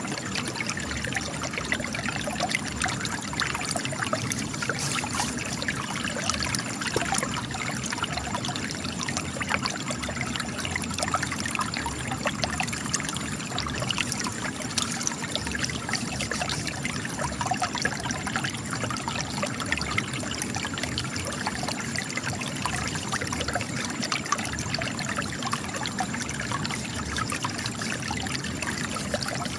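Spring water trickling and splashing steadily from cracks in rock, an unbroken stream of small splashes and drips.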